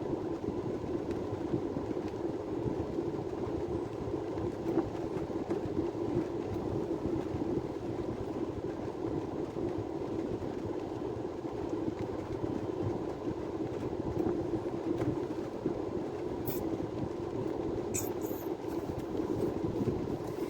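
Steady, unchanging engine and road drone heard from inside a vehicle, with a few faint clicks near the end.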